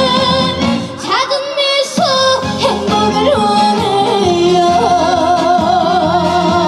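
Korean trot song performed live: a female voice singing with heavy vibrato and sliding ornaments over a full backing band.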